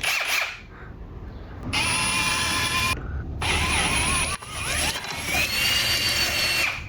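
Power drill boring a hole through a motorcycle swing arm, running in two stretches with a short stop about three seconds in; its whine rises in pitch partway through the second stretch.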